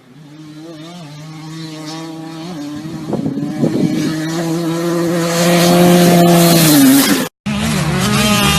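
Motocross bike engine growing steadily louder as it comes closer, holding a steady note with a brief change in pitch about two and a half seconds in. Near the end the sound cuts out briefly, and an engine comes back with a note that wavers up and down, as with repeated revving.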